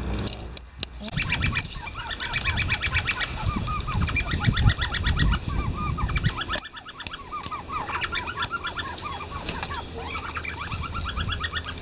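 Many animals calling at once: a dense chorus of rapid, repeated honk-like calls, breaking off briefly twice.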